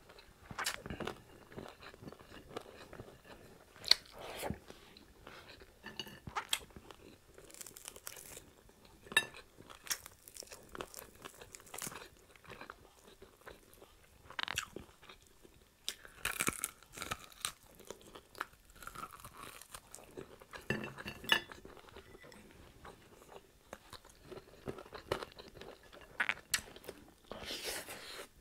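Close-up eating of crispy fried pork chop: irregular crisp crunches as the breaded, fried meat is bitten and chewed, a few bites sharper and louder than the rest.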